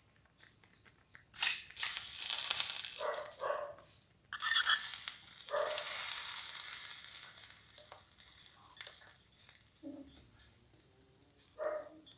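Small pan of milk payasam hissing as fried cashews and raisins go in. There are two hisses, each starting suddenly and dying away over a few seconds, with light clicks in between.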